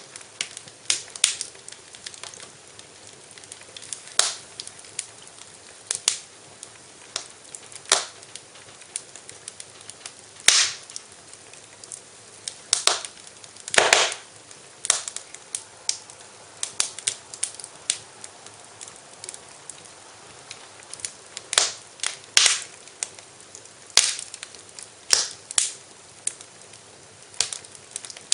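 Wood fire in a fireplace crackling, with irregular sharp pops and snaps over a faint steady hiss.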